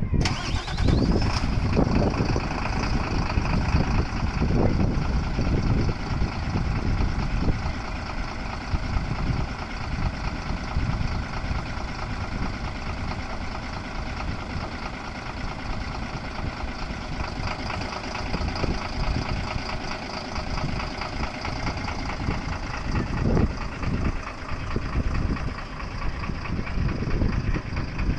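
Mitsubishi Fuso bus diesel engine just started and idling steadily, with a brief rising whine in the first second or so.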